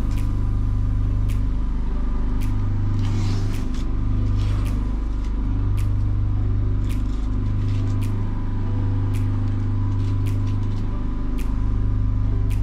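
A steady, loud, low motor hum with a faint high tone above it, and scattered sharp clicks about once a second.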